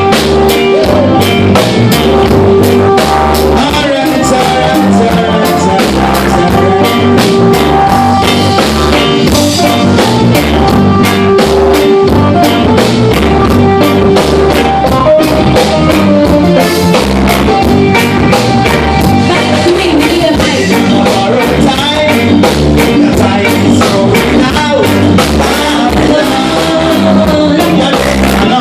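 A live reggae band playing, with drum kit, bass and guitar keeping a steady rhythm.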